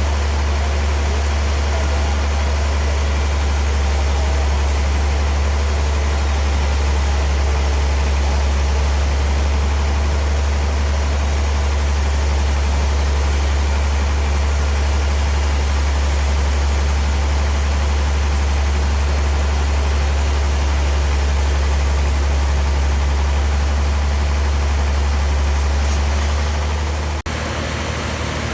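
Sawmill machinery running steadily, a loud low hum under a wide noise. The level drops suddenly near the end.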